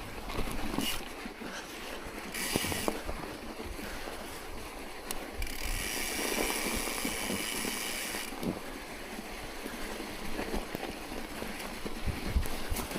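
Wind buffeting the microphone while moving through snow, with scattered knocks and crunches and a louder stretch of hiss about six to eight seconds in.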